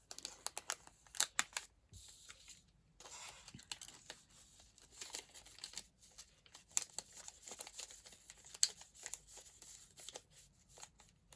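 A packet of craft beads being handled on a desk: crinkling and rustling of the packaging with scattered small clicks and taps.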